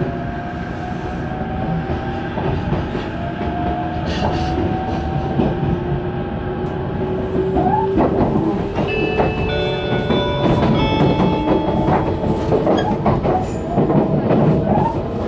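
Electric limited express train (the Azusa) pulling away from the station and picking up speed, heard from inside the carriage. Its motor whine slowly rises in pitch, then changes into a series of tones stepping between pitches, over a steady rumble and the clatter of wheels on the rail joints.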